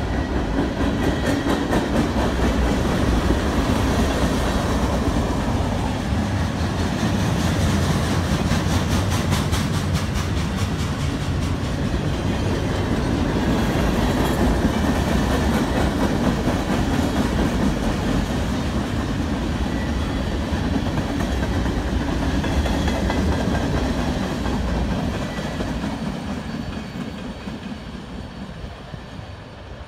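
Freight train cars rolling past: a steady rumble of wheels on rail with rhythmic clicking over the rail joints. The sound fades near the end as the last car goes by and the train moves away.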